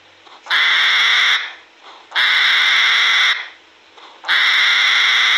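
Hedgehog huffing: three loud hissing bursts, each about a second long, spaced about a second apart.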